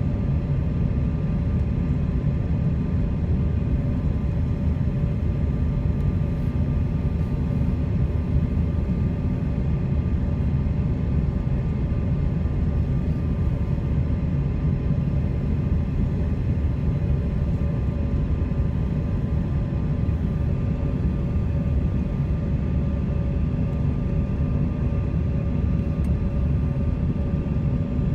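Steady cabin noise of an airliner in flight: a deep, even rumble of engines and airflow with a faint steady hum over it.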